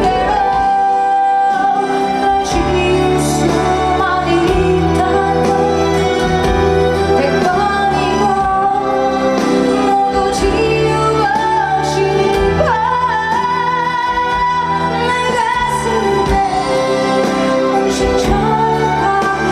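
A female singer singing a song live over band accompaniment, her melody sliding and holding long notes above steady bass and drum beats.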